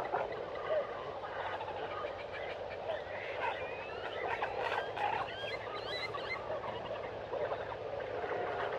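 Tropical forest ambience: a dense chorus of overlapping bird calls and chirps, with several short whistled glides in the middle, about three to six seconds in.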